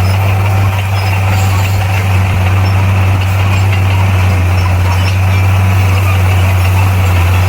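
Bulldozer's diesel engine running steadily, a constant low drone with no change in pitch.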